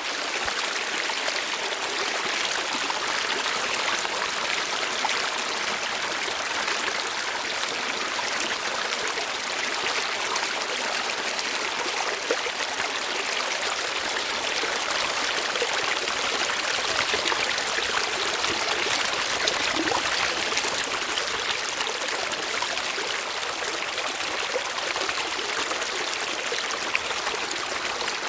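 Running water flowing steadily, an even rush with fine trickling detail throughout.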